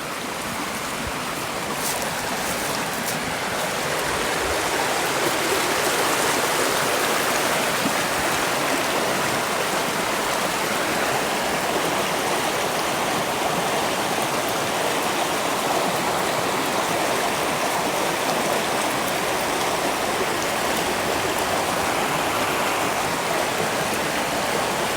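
River water rushing steadily, swelling over the first few seconds and then holding even.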